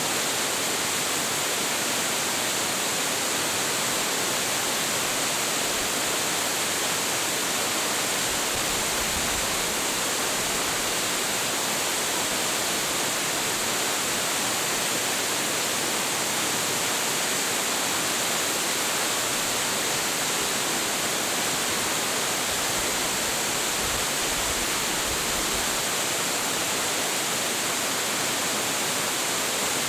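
A large waterfall's water crashing into its plunge pool, a steady, unbroken rush of water noise with no let-up.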